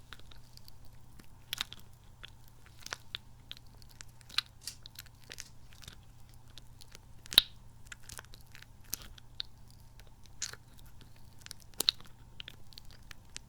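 Squishy, sticky kidney-bean toy being squeezed and pulled apart close to the microphone, making irregular sticky clicks, crackles and squelches. The sharpest snap comes about seven seconds in, and another near the end.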